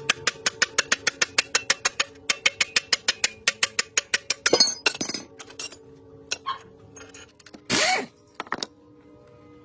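Fast, even metallic clicking, about eight clicks a second for roughly four and a half seconds, then a few scattered knocks and a short hiss near the end. Steady background music runs underneath.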